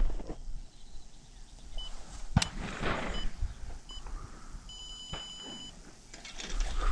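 Short electronic beeps, three brief ones and then one held for about a second, with a single sharp click between them.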